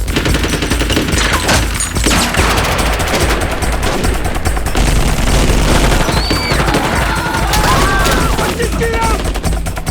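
Heavy, continuous gunfire: a fusillade of rapid automatic-weapon shots, many fired at once, in a film action soundtrack.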